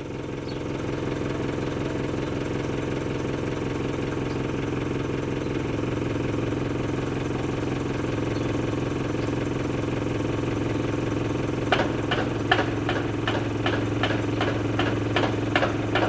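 A steady, engine-like hum with an even drone. About three-quarters of the way in, rapid repeated knocking starts, about three knocks a second: the knocking the filmer has been calling a woodpecker all night.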